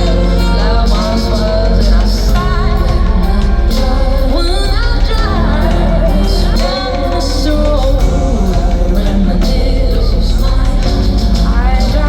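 Live concert music: a woman singing over a full band with heavy bass.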